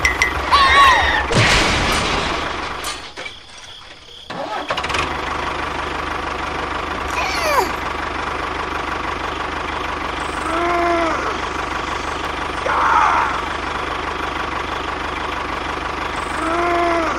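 Tractor engine running at a steady chugging idle. It cuts out for about a second roughly three seconds in, then starts again. A few short, high, squeaky rising-and-falling sounds come over it, the first near the start and two more in the second half.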